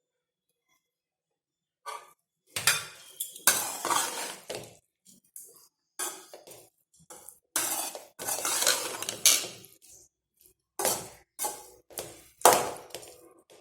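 A metal spoon clattering and scraping against a metal cooking pot in short irregular bursts, starting about two seconds in.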